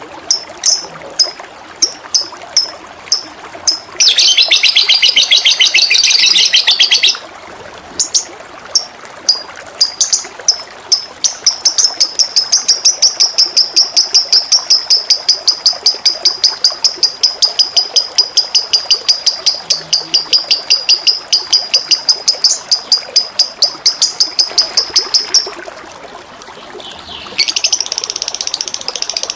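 A songbird calling in series of short high chirps, breaking into a harsh buzzy phrase about four seconds in and a long, fast trill through the middle, with another buzzy phrase near the end. Steady flowing water runs underneath.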